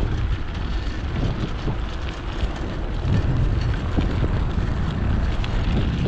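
Wind buffeting the microphone, a steady low rumble with no clear tone.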